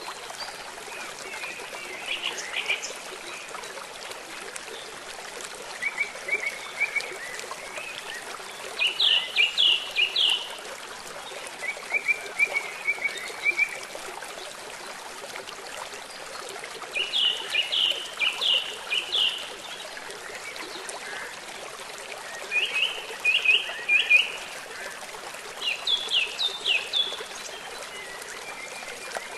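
Bird chirping in short bursts of quick, high notes every few seconds over a steady rush of running water.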